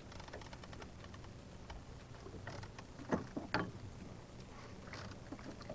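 Faint steady low hum of a boat's motor, with scattered small mechanical clicks and a couple of louder knocks about three seconds in.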